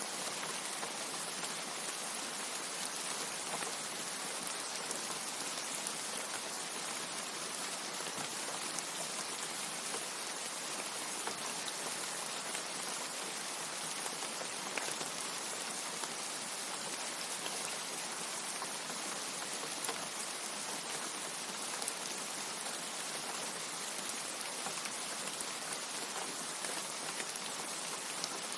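Steady rain: an even hiss of falling rain with scattered small drop ticks.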